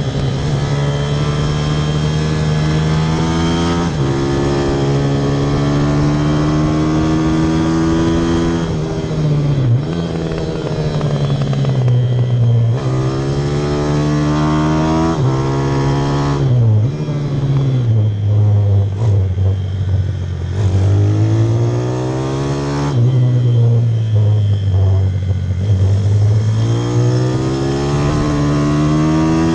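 Pit bike engine under hard use on track: the note climbs as it accelerates, then drops suddenly at shifts or when the throttle closes for corners, several times over.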